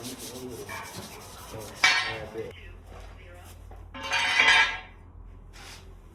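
Metal parts and tools clattering: a loud clank about two seconds in and a longer, louder clatter around four seconds in, after a stretch of rubbing.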